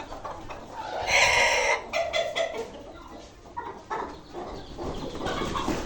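Desi chickens clucking and calling, with one loud, harsh squawk about a second in and scattered shorter calls after it.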